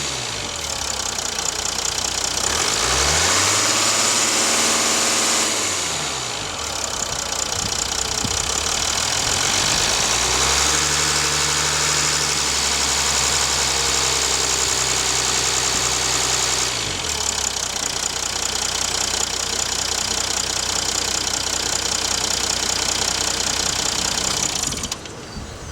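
A Mercedes E350's 3.0-litre V6 turbodiesel, heard at the open engine bay, idling with a diesel knock and revved twice: a short rise and fall, then a longer rev held steady for several seconds before dropping back to idle. It cuts off near the end, as if switched off.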